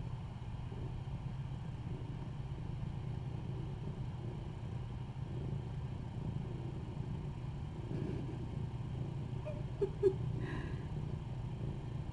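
Cat purring steadily, a low continuous rumble, with a brief faint squeak about ten seconds in.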